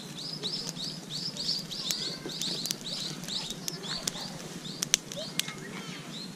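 A bird calls in a fast, even run of high chirps, about five a second, which fades out a little past halfway. A wood campfire gives sharp crackles and pops throughout, the loudest pop about five seconds in.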